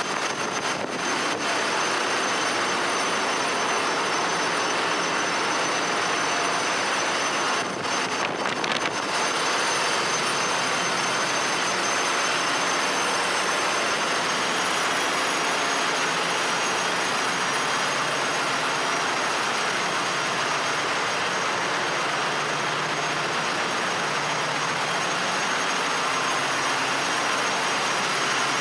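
Ship's engine room machinery running: a loud, steady roar with fixed high-pitched whines on top, dipping briefly about a second in and again around eight seconds in.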